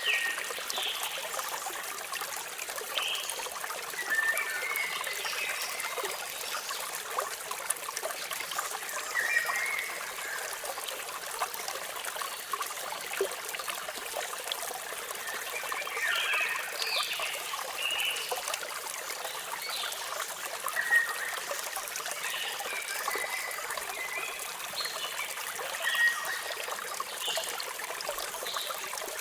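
Steady splashing of a small waterfall, with birds chirping on and off over it, in short chirps that come in clusters.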